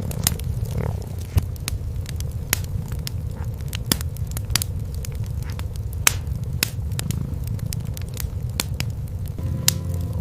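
Wood fire crackling with frequent sharp pops over a steady, low cat purr. A few held tones come in near the end.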